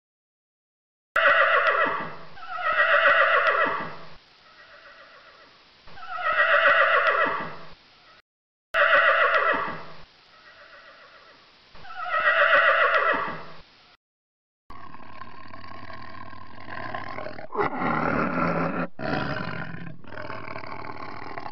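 An animal calling: several long cries that fall in pitch, the same run of calls heard twice with short silent gaps between, then a different, steadier animal sound in the last several seconds.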